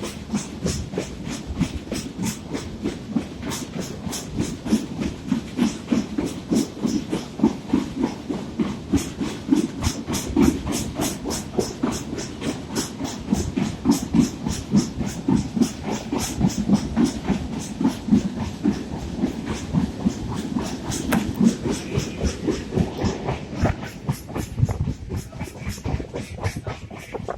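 Passenger train running, heard from on board: a steady rumble of the wheels and carriage, with a run of sharp clickety-clack clicks, several a second, as the wheels cross rail joints.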